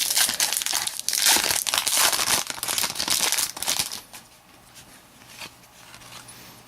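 Trading card pack wrapper being crinkled and torn open, a dense crackling for about four seconds, then only faint handling ticks.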